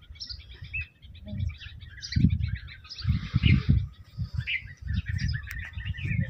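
Small birds chirping with many quick, high calls, over irregular low rumbling bumps and a brief rustle about three seconds in.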